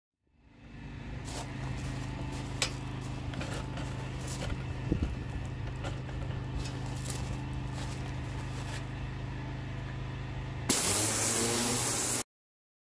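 Pressure washer running with a steady hum and a few clicks, then the lance spraying in a loud hiss for about a second and a half near the end before the sound cuts off suddenly.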